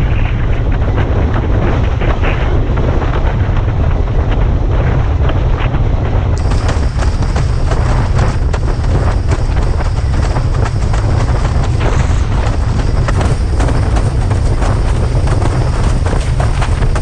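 Strong wind buffeting the microphone of a head-mounted action camera while windsurfing at speed: a steady, heavy low rumble with a rushing hiss and many small crackles over it.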